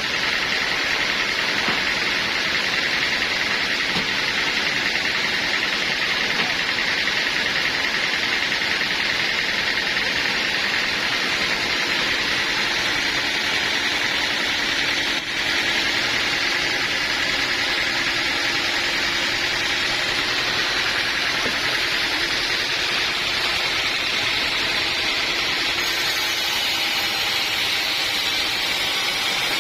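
Portable sawmill running: a steady mechanical noise that dips sharply for a moment about halfway through.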